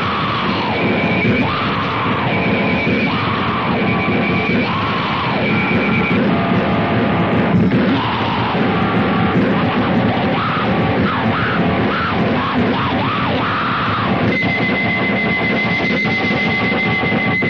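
Loud, distorted crust/grind punk music with heavy guitar, steady and dense. A thin high whining tone sits over it for the first few seconds and comes back near the end.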